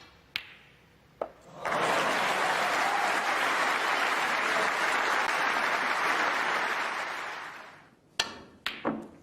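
Audience applause in a snooker arena, starting about a second and a half in and fading out after about six seconds. It is preceded by a few sharp clicks of snooker balls being struck and colliding. Near the end, three more ball clicks come after the applause.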